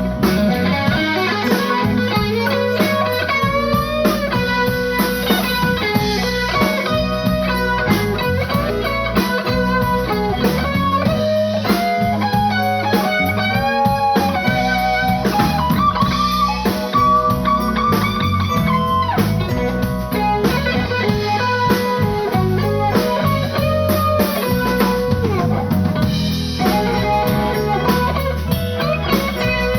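Live blues band playing: an electric guitar leads with bending notes over bass and drum kit.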